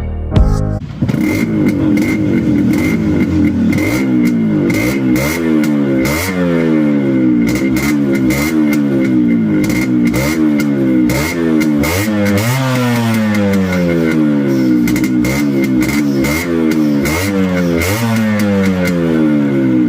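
Yamaha RX100's single-cylinder two-stroke engine running through a modified exhaust, starting about a second in. It is revved in quick throttle blips about once a second, each climbing and then falling away, with a crackly note.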